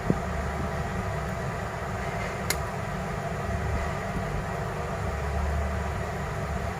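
A steady low mechanical hum with a single sharp click about two and a half seconds in.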